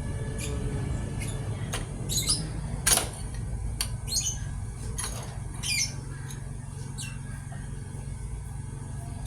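A bird's short squawking chirps, each falling in pitch, repeated every second or two, with a few sharp clicks and a steady low hum underneath.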